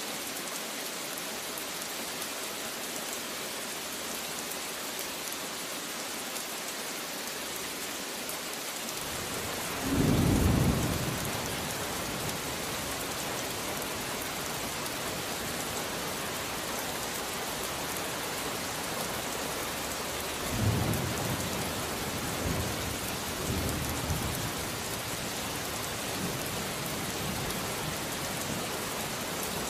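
Steady rain falling, with thunder: a loud low thunderclap rumbling about a third of the way in, then weaker rolls of thunder in the later part.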